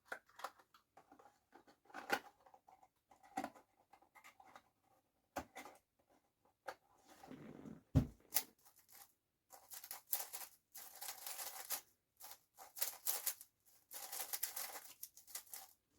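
Plastic 5x5 speedcube being turned by hand: scattered clicks at first, then fast runs of rattling clicks as the layers are spun. There is one low knock about eight seconds in, like a cube set down on the table.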